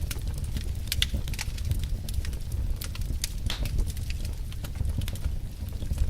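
Wood fire of burning logs crackling, with irregular sharp pops and snaps, several of them in quick clusters, over a steady low rumble.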